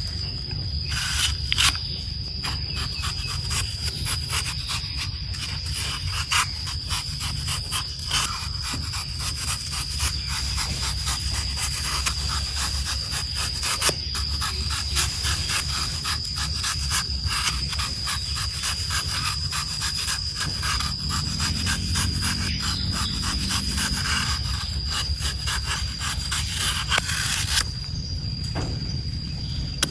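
Knife peeling and slicing a crisp apple: rapid, close scraping and cutting strokes, with a thin steady high-pitched whine underneath.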